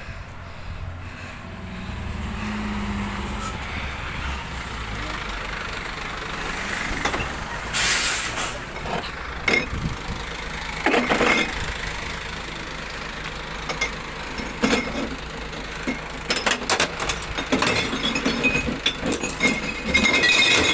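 Glass recycling truck's diesel engine running, with a sharp air-brake hiss about eight seconds in. Knocks follow, then a run of short clinks and clatters near the end.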